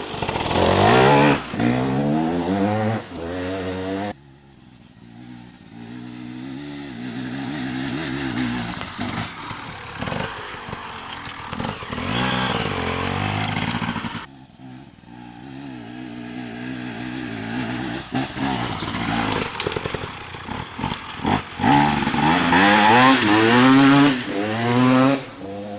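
Motocross dirt bike engine revving hard, its pitch climbing and dropping again and again as the throttle is worked, with abrupt changes about 4 and 14 seconds in.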